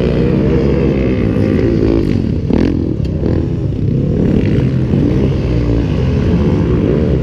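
Several racing lawn mowers powered by 250cc to 400cc motorbike engines running hard and revving as they lap the track, several engines overlapping. One short sharp crack about two and a half seconds in.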